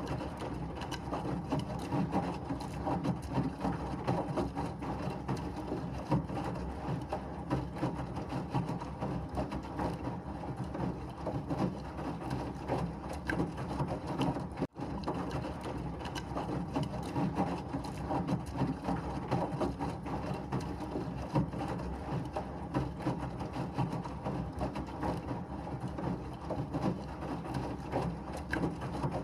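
Washing machine running steadily, a constant churning hum with a fine rattle. There is a very brief break about halfway through.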